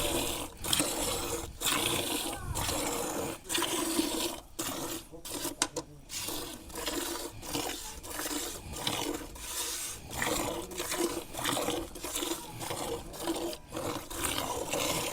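Cow being milked by hand: milk squirting into a pail in a steady rhythm, roughly two squirts a second.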